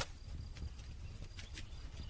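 Wood campfire crackling: irregular sharp pops and snaps, a loud one right at the start and a quick cluster near the end, over a steady low rumble of the burning fire.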